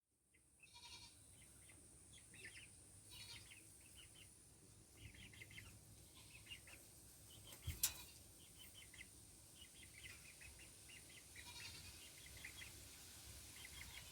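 Faint bird chirps, short and repeated in little clusters throughout, with one sharp click about eight seconds in.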